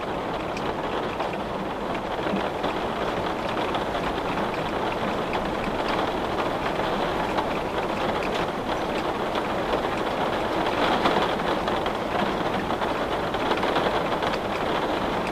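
Steady rain falling on a window: an even hiss with many small drop ticks, swelling slightly about eleven seconds in.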